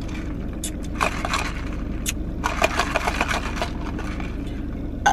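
Crackling and clicking of a plastic boba drink cup, lid and straw being handled, in several short clusters over the steady hum of a car cabin.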